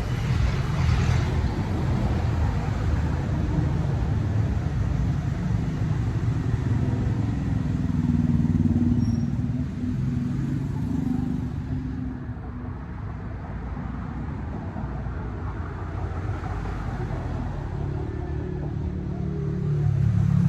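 A motorcycle running on the road while being ridden: a steady low engine rumble with road and wind noise, the engine note rising and falling as the speed changes.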